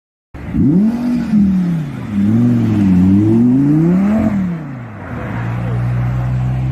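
A car engine revving, its pitch rising and falling several times in quick succession, then holding a steady drone from about five seconds in. The sound starts abruptly just after the start.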